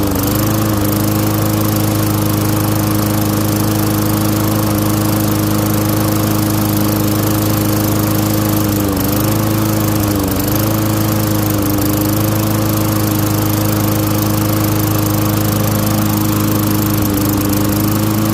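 Craftsman push mower's Tecumseh single-cylinder engine running steadily, its pitch sagging briefly a few times, most clearly around nine and ten seconds in.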